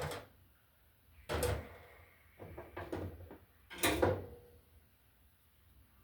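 Hand tools and wire being handled: a few short clatters and scrapes, the two loudest about a second and a half and four seconds in.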